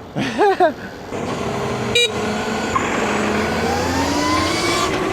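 Stomp Haywire electric dirt bike's motor whining and rising in pitch as the bike accelerates, over road and wind noise. There is a short beep about two seconds in.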